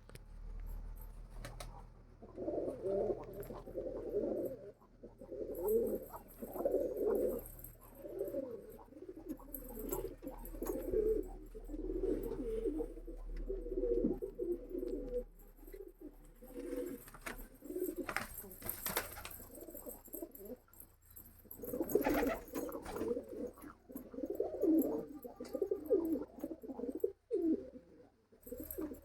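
Fancy pigeons cooing, low coos repeating over and over, easing off for a few seconds a little past the middle before picking up again.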